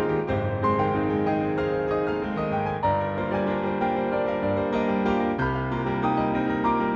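Solo piano from the Garritan CFX sample library (a sampled Yamaha CFX concert grand), playing a dense arrangement of full chords and running notes, with new chords struck about three and five and a half seconds in.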